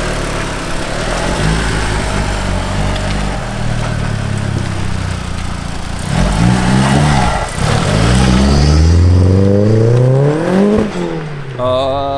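Turbocharged engine of a Volkswagen Mk2 idling steadily for about six seconds, then revving hard as the car pulls away. The pitch climbs, dips briefly at a gear change, and climbs again. The newly fitted turbo is loud.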